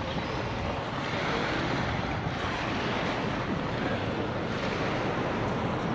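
Steady ocean surf washing on the beach, mixed with wind buffeting the microphone.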